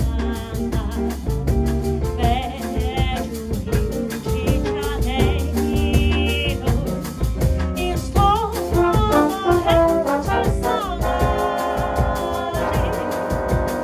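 A small jazz band playing a samba tune, with brass instruments carrying the melody over a steady drum groove and bass.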